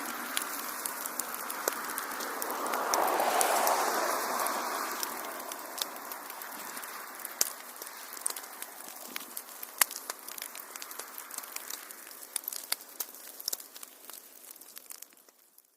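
Wood fire crackling in a fireplace: a steady hiss of burning with many sharp pops and snaps. It swells a few seconds in, then slowly fades and dies away to silence at the very end.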